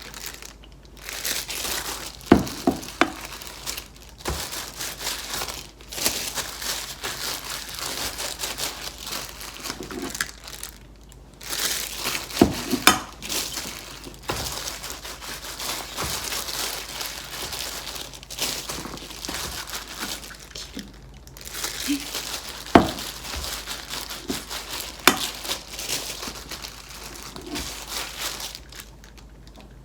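Crinkling and rustling of something being handled, with a few sharp knocks now and then and short pauses.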